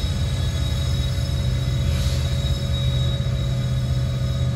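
Freight cars rolling slowly past on the rails, their wheels giving a steady low rumble with a thin steady high tone over it, heard from inside a car.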